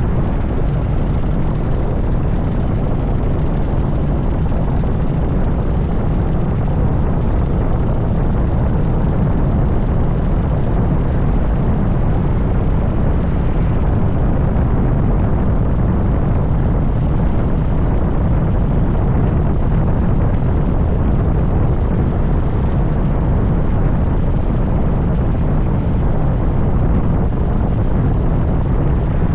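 Harley-Davidson Dyna Super Glide's V-twin engine running steadily while the bike is ridden, heavy in low pitch with no marked revving or shifts.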